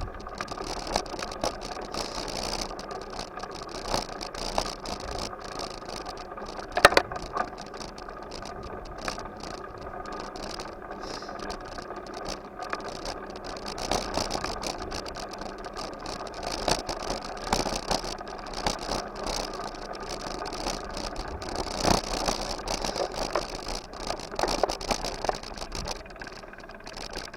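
Bike in motion: a steady rattling running noise, with a few sharp knocks, the loudest about seven seconds in and another about twenty-two seconds in.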